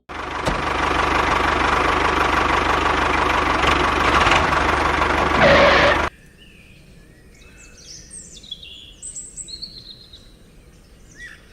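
Loud steady whirring noise that cuts off suddenly about six seconds in, leaving faint birds chirping.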